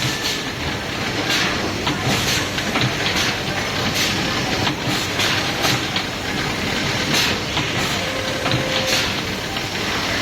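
Automatic soldering machine running: a steady mechanical clatter with repeated short hissing bursts.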